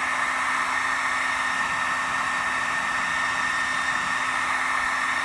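Heat gun blowing steadily with a high whine, heating the panel's metal before the dent is pushed out. It switches off at the very end and its fan winds down.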